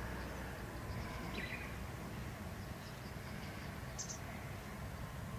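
Steady outdoor background noise with a low rumble, and two short bird chirps: one falling about a second and a half in, one high and brief near the end.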